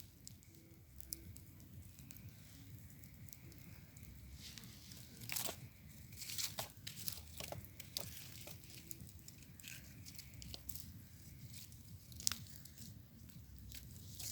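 Wood bonfire crackling with irregular pops and snaps, busiest about five to seven seconds in, with one sharp loud snap about twelve seconds in.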